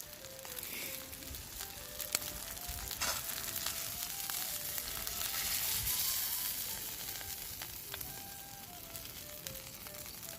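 Beef sizzling as it grills over a campfire, with a few sharp pops; the sizzle swells around the middle. A soft music melody plays underneath.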